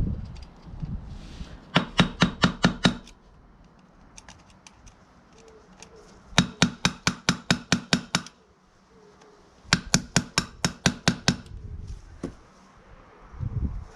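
Small hammer striking the rivet of a motorcycle drive-chain connecting link to peen and flare it: three quick runs of metal-on-metal taps, about six a second, with short pauses between.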